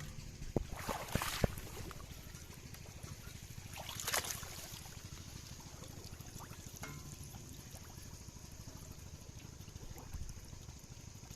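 Water splashing and trickling, with a few sharp knocks in the first second and a half and another splash about four seconds in, over a low steady rumble.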